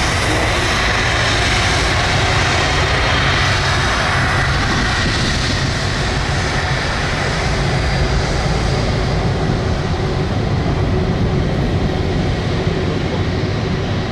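Jet airliner engines running loud and steady: a broad rumble and hiss with a thin steady whine. The high hiss eases off in the second half.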